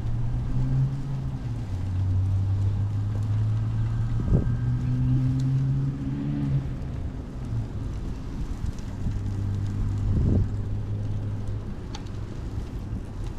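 Motor vehicle engines running in nearby road traffic, their low hum shifting in pitch a few times, with wind noise on the microphone and two brief thumps, about four and ten seconds in.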